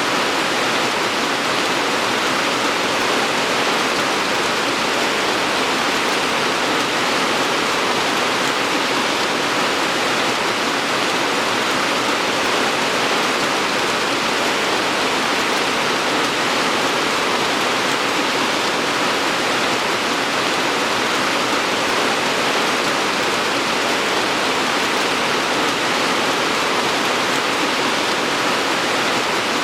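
Steady heavy rain, an even dense hiss of falling water without distinct drops.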